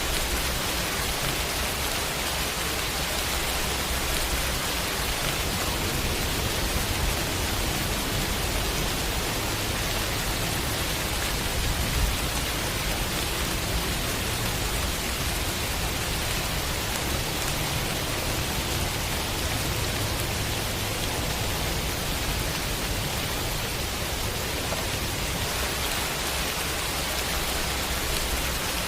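Heavy rain falling steadily in a dense, even hiss, with a low rumble of distant thunder swelling underneath through the middle.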